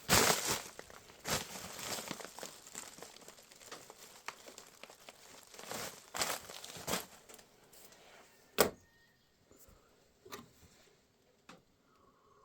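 Bags crinkling and rustling in irregular bursts as dried herbs are packed into them, with one sharp knock about two-thirds of the way through, then a few light clicks.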